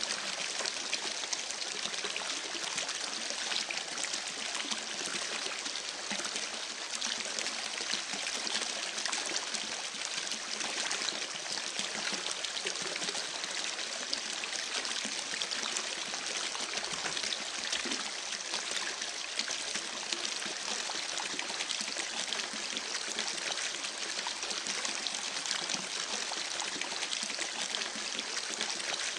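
Creek water babbling and trickling in a steady, even rush, with fine splashy detail in the flow.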